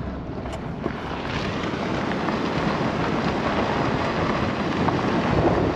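A truck driving on a forest road: a steady noise of tyres, engine and wind that slowly grows a little louder.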